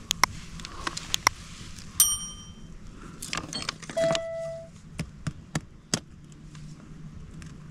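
Metal clicks, taps and clinks of hand tools working on a broken bicycle chain, including two brief ringing metallic notes about two and four seconds in.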